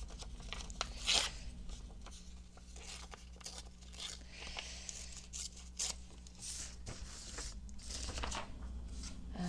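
Paper being handled: intermittent rustling and short tearing sounds, over a faint steady low hum.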